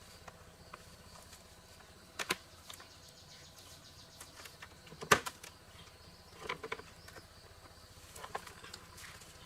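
A few separate clicks and knocks over a faint steady hiss, the loudest about halfway through: handling noises from work on an old air conditioner fan.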